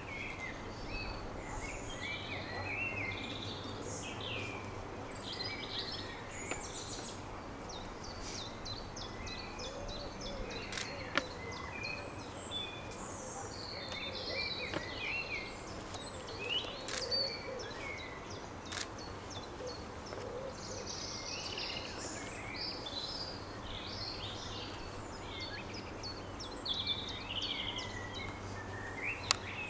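Several songbirds chirping and singing over a steady low background hum, with a few brief sharp clicks.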